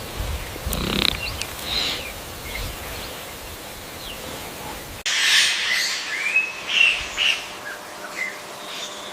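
Birds chirping in short, scattered calls. About five seconds in the recording changes abruptly, and the chirps come louder over a steady hiss.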